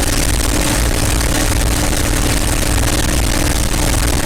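North American P-51 Mustang's V-12 Merlin engine running steadily under power, a constant loud drone with a pulsing low end and a steady hum.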